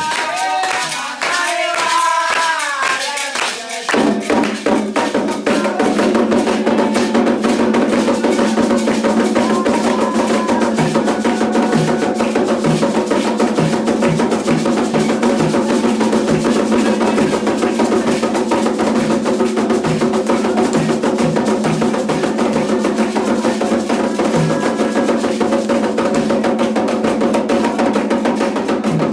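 Ritual chanting with hand clapping, then about four seconds in Candomblé atabaque drums and a struck wooden or bell-like percussion come in and keep up a fast, steady, dense rhythm.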